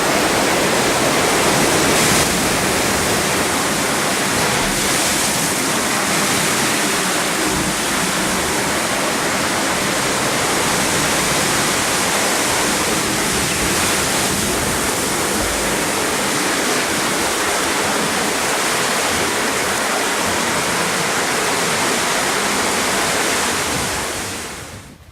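Hurricane wind making a steady, loud rush like airplane sounds as the inner rain bands and eyewall approach. It fades out near the end.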